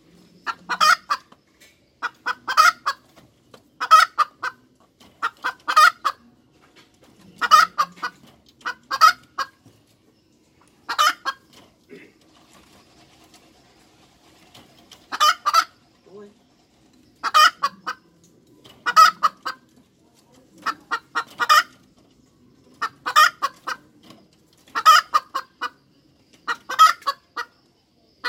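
Domestic hen cackling: loud bursts of short, clustered clucks repeated every second or two, with a pause of a few seconds about midway.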